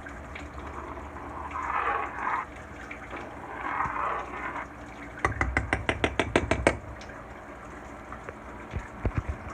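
Flour-thickened gravy being stirred in a frying pan, with wet swishing sounds, then a quick, even run of about ten clicks a little past halfway, and a few soft knocks near the end.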